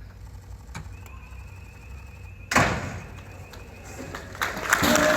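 A bottle of single malt whisky smashing against the steel hull of a Type 26 frigate: one sudden loud crash about two and a half seconds in, dying away. Near the end, applause and band music start up.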